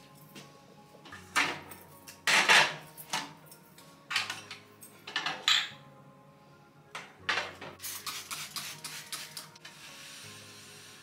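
Dishes and cutlery clattering as they are handled, a run of irregular clinks and knocks, with a steady hiss near the end.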